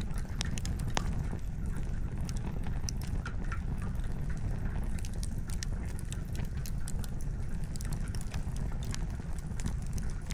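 Wood campfire crackling, with irregular sharp snaps and pops of burning logs scattered through, over a steady low rumble.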